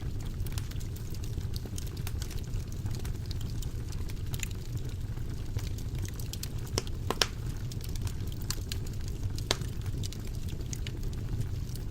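Wood fire burning in a fireplace: a steady low rumble of flames with scattered sharp crackles and pops, a few louder pops a little past the middle and near the end.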